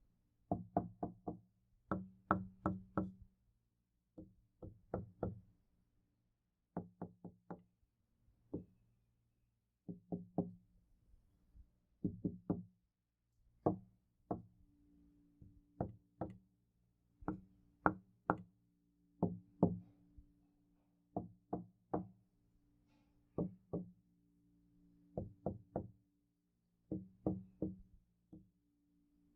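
Knocking on a door in repeated groups of two to four quick knocks, with short pauses between the groups. A low ring hangs under many of the groups.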